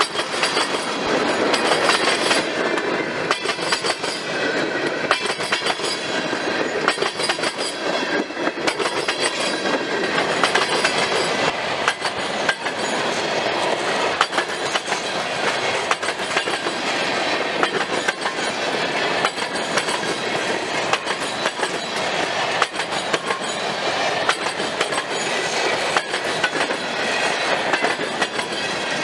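Freight train cars rolling past close by: a steady rumble and rattle, with the steel wheels clicking over the rail joints many times a second.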